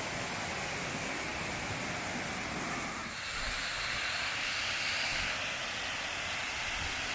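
Waterfall rushing as a steady hiss of falling water; about three seconds in the sound turns brighter and thinner as the low rumble drops away.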